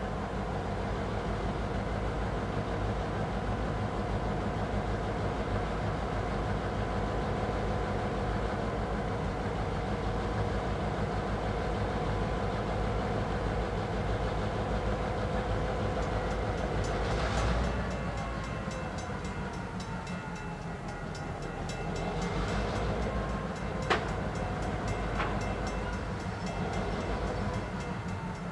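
A train rolling past with a steady rumble of wheels on rail. About two-thirds of the way through the rumble eases and a thin tone slides slowly down in pitch, and two sharp clicks come near the end.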